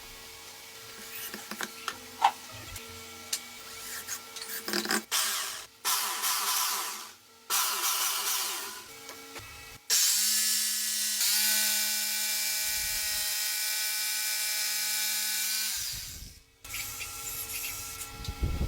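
Electric jigsaw cutting wood: several short bursts of cutting, then a steady run of about six seconds that starts and stops abruptly, and one more short burst near the end.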